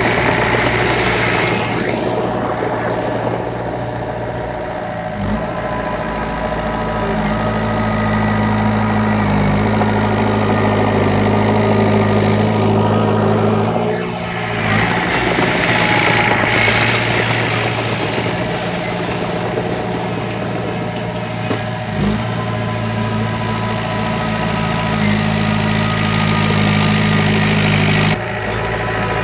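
Heavy machine's diesel engine running steadily, its note shifting a few times as the load or throttle changes.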